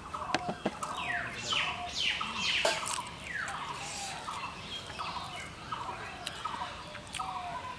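Birds calling: a fast run of repeated downward-sweeping whistles over steady, evenly spaced chattering notes. A few sharp clicks come about half a second in.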